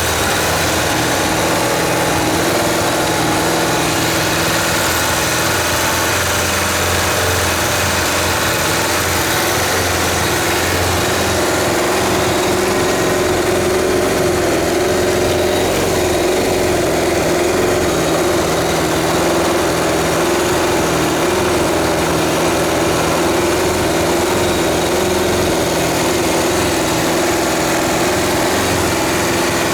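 Kawasaki GPZ550 (ZX550A) air-cooled inline-four motorcycle engine idling steadily.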